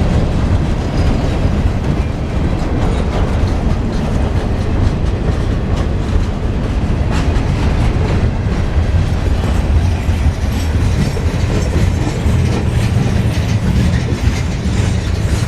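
Freight train's cars rolling past close by: a steady heavy rumble from the wheels on the rails, with scattered clicks as the wheels cross the rail joints.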